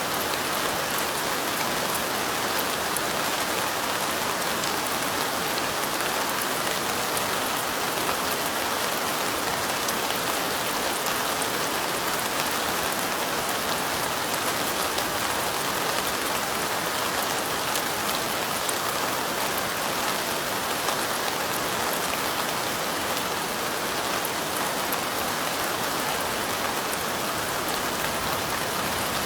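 Steady light rain falling, an even hiss with fine drop ticks that holds unchanged throughout.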